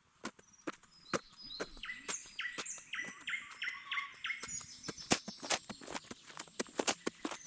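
A songbird sings a phrase of quick repeated notes in the first half, over many sharp, irregular clicks and snaps. The loudest snaps come a little past halfway and near the end.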